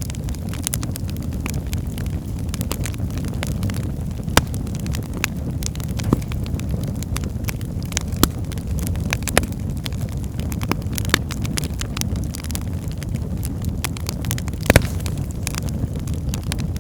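Wood fire burning in a fireplace: a steady low rumble of flames with irregular sharp crackles and pops, two louder pops about four and fifteen seconds in.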